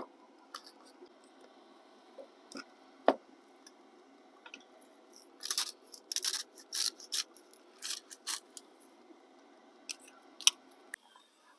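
Seasoning being shaken out over raw steaks: a run of short rasping shakes in the middle, with a few sharp knocks of containers or utensils set down.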